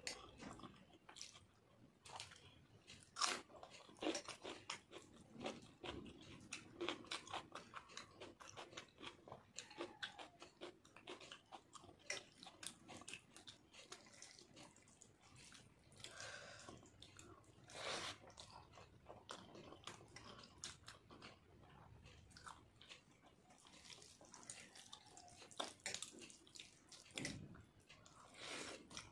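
Chewing and wet mouth smacks of someone eating soft rice mixed with dal by hand, made up of many short, irregular clicks.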